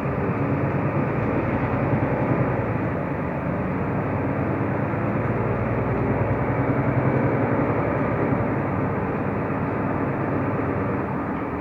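Mercedes-Benz O345 Conecto LF city bus under way, its engine and drivetrain running steadily, heard from inside the passenger cabin.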